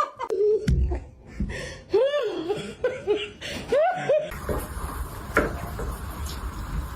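A person laughing and chuckling in a few short rising-and-falling bursts over the first four seconds, followed by steady background noise and a single knock.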